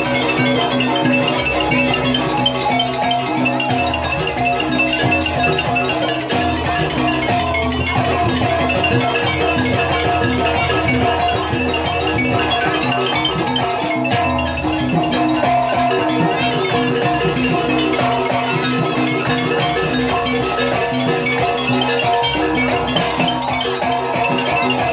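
Banyuwangi jaranan music from a gamelan-style ensemble: pitched metal mallet percussion rings on steadily over low drum strokes.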